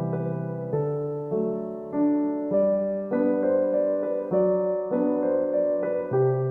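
Background piano music: a keyboard playing a steady run of notes and chords that change about every half second.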